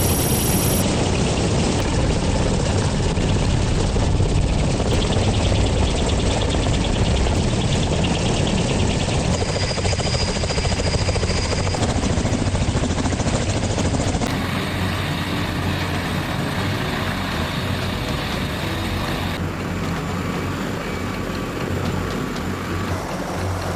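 Rotors of military helicopters beating loudly and steadily. The sound changes abruptly twice along the way, once about halfway through and once later.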